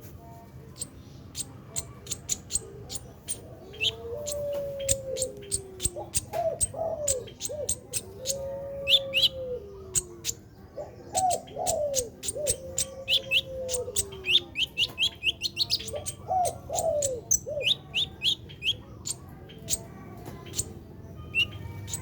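Sunbird (kolibri ninja) calling in a rapid stream of sharp, high chips and short trilled clusters. Lower, sliding whistled notes come in three phrases.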